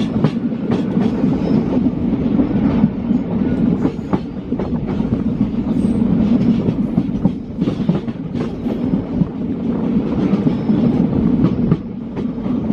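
A passenger train running along the track, heard from inside a coach: a steady rumble with irregular clacks of the wheels over rail joints.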